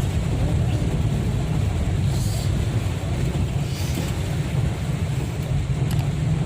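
Heavy rain over road traffic: a steady wash of noise under a low rumble of passing vehicles, with brief swells of hiss about two and four seconds in, like tyres on wet road.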